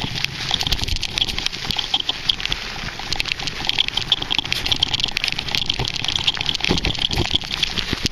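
Bicycle on a rough, rocky dirt trail: tyres crunching over gravel, with frequent clicks and knocks from the frame and handlebars.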